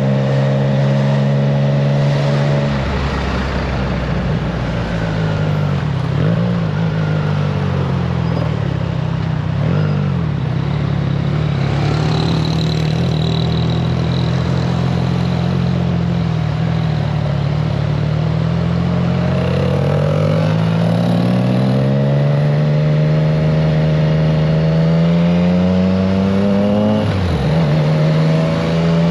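Triumph Trident 660's inline three-cylinder engine through a FireTong aftermarket exhaust, ridden on the road. Its pitch drops about three seconds in, then holds fairly steady. It rises steadily under throttle through the second half and drops quickly again near the end.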